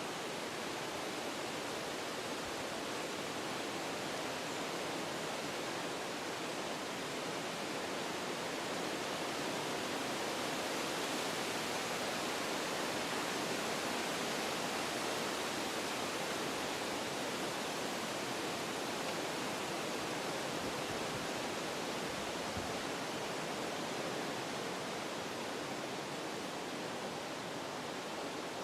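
Wind blowing through forest trees, a steady rushing that swells a little in the middle and eases again near the end.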